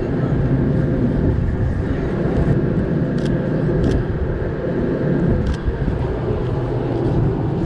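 Steady rumble of city street traffic, with a few short clicks in the middle.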